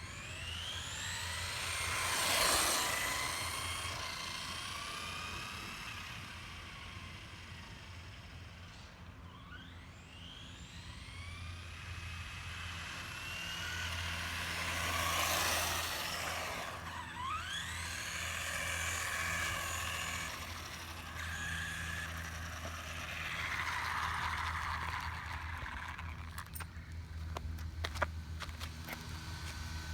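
Traxxas Slash 4x4 RC truck's electric motor and drivetrain whining, rising and falling in pitch in several long sweeps, with a run of sharp clicks near the end. It is a weird, unexplained noise that the owner wonders may be linked to a newly fitted center differential.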